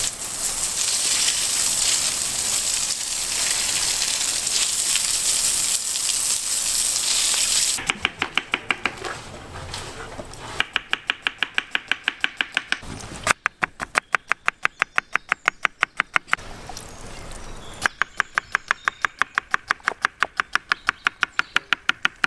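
A steady hiss for the first eight seconds or so, then a knife chopping meat on a board in quick, even runs of about four to five strokes a second, with short pauses between runs.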